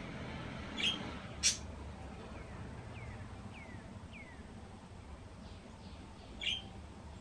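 Small wild birds calling: a few short, sharp, high chirps, one near the start louder and click-like, and a run of three or four faint whistled notes that slide downward. A steady low rumble lies underneath.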